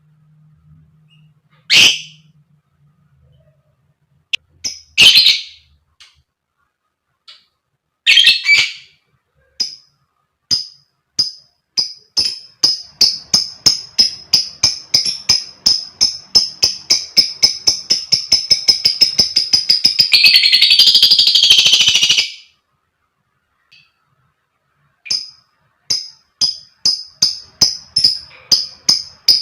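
Lovebird 'ngekek panjang', a long chattering song. A few single shrill calls come first, then a long run of sharp, high, rapidly repeated notes that quickens into a buzzing rattle and breaks off about 22 seconds in. A new run starts near the end.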